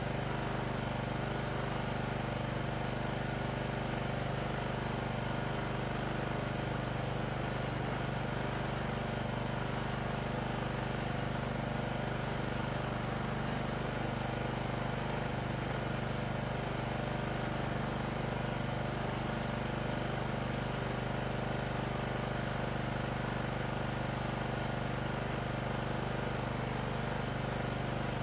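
Riding mower's petrol engine running steadily at an even speed, with a constant low hum.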